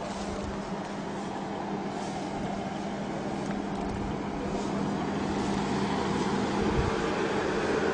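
A motor vehicle's engine running steadily with a constant hum, slowly growing louder.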